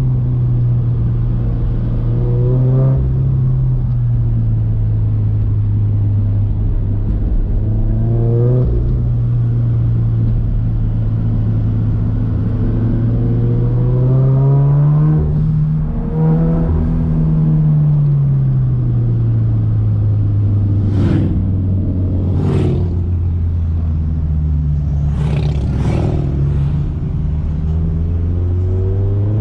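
Turbocharged Scion FR-S's 2.0-litre flat-four engine pulling the car along, its revs repeatedly rising and falling as it accelerates and eases off. Several brief sharp noises break in about two-thirds of the way through.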